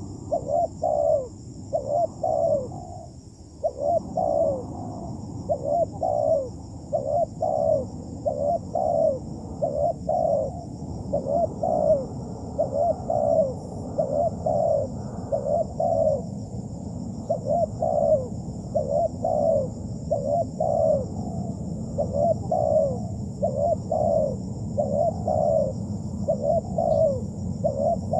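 Spotted dove (terkukur) cooing over and over in rhythmic phrases of two or three notes, pausing briefly about three seconds in. A steady high-pitched drone runs underneath.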